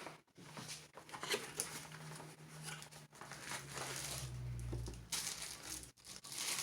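Packaging and tumblers being handled on a table: crinkling and rustling with small clicks and knocks, and a brief low rumble about four seconds in.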